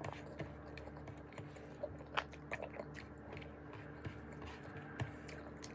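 A person chewing a mouthful of cooked vegetables, eaten by hand: faint wet mouth clicks and smacks scattered irregularly, a few slightly louder ones about two seconds in and near the end.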